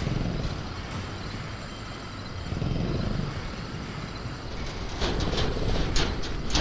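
Sound-design ambience of a caged velociraptor rattling its cage: a low rumble, then from about five seconds in a quick run of sharp clanks and knocks.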